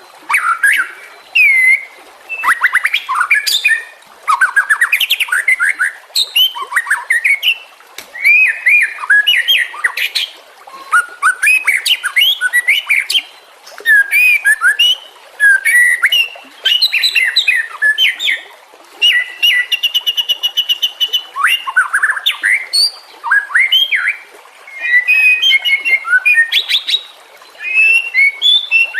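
White-rumped shama (murai batu) singing a varied song of loud whistles, slurred notes and chirps, delivered in bursts with short pauses. A fast, even run of repeated notes comes about two-thirds of the way through.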